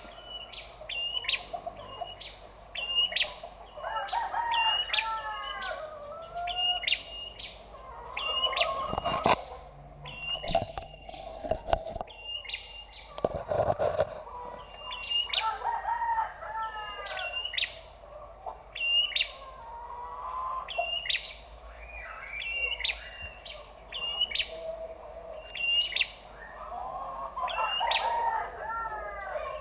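Prenjak (prinia) songbird calls: sharp, high chirps repeating about once a second, broken every few seconds by short bursts of lower warbling notes.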